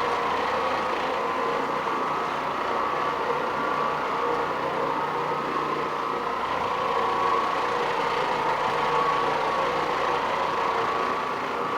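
Electric carpet-cleaning machine running steadily, a constant motor hum with a whine over it.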